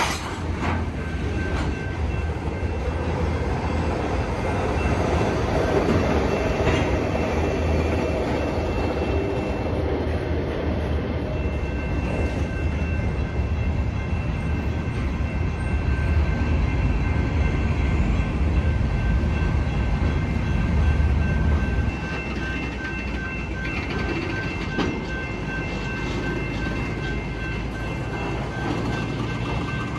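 Freight cars, covered hoppers then tank cars, rolling past on steel rails with a steady low rumble and wheel clatter. A thin, steady high tone joins about twelve seconds in, and the rumble eases slightly a little after twenty seconds.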